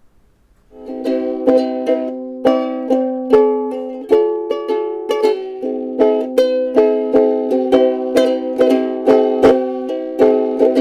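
Ukulele strummed in steady chords, starting about a second in at roughly two strums a second, with the chord changing a few times.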